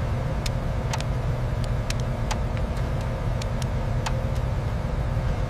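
Steady low mechanical rumble with a faint hum and scattered sharp clicks.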